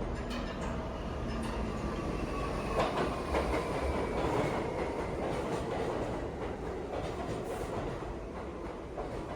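New York City subway train running through the station, with a motor whine that slowly falls in pitch and wheels clicking over rail joints; the sound is loudest a few seconds in and then eases off.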